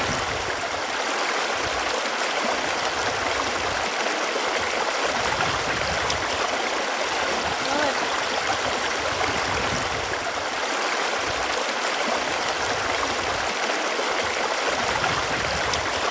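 Running water, a steady even rushing with now and then a faint bubbling gurgle.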